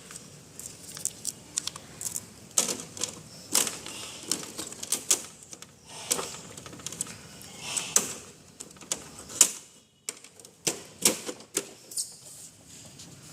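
Irregular sharp clicks and knocks, several a second at times, pausing briefly about ten seconds in.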